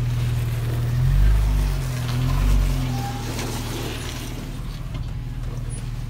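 Jeep engine running low and steady at crawling speed over rock, with two brief rises in revs under throttle about one and two and a half seconds in.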